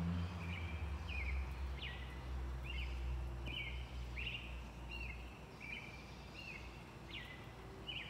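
A bird calling over and over outdoors, short high notes about twice a second, some with a quick upward flick.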